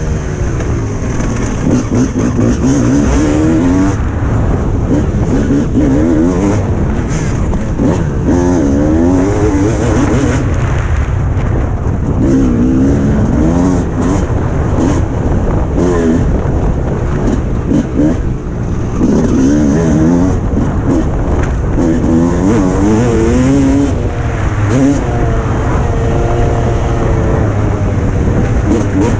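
300cc Suzuki RM two-stroke motocross engine heard from on the bike, revving hard and falling back over and over as it is ridden round the track, its pitch rising and dropping every second or two.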